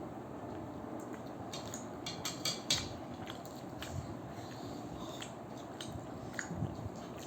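People eating momos: chewing, with a quick run of small clicks and taps from plates or utensils about two to three seconds in.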